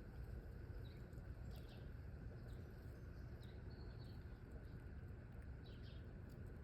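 Faint, scattered short chirps of small wild birds, about half a dozen, one held briefly as a thin whistle near the middle, over a steady low outdoor rumble.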